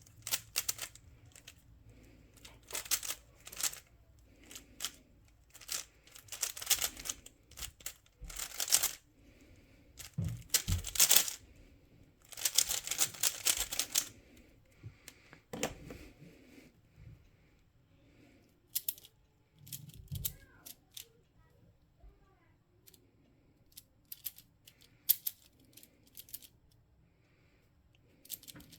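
Plastic puzzle cube being turned by hand: bursts of rapid clicking turns with short pauses between them. The turning is dense for the first half and becomes sparser, with single clicks and short flurries, in the second half.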